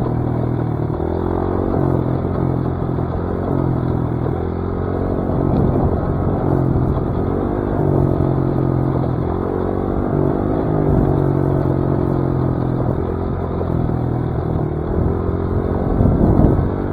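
Dirt bike engine running while being ridden along a trail, its note rising and falling every second or two with the throttle.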